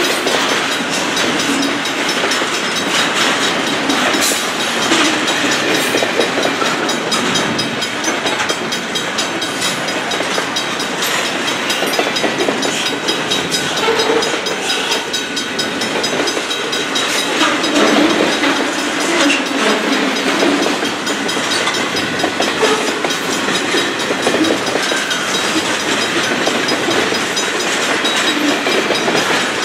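Double-stack intermodal container well cars rolling past close by: the steady noise of steel wheels on rail, with repeated clicks and knocks from the wheels and cars.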